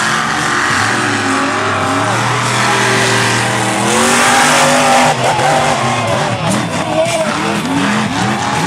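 Monster truck engine revving hard under full throttle, its pitch rising and falling, loudest about four to five seconds in.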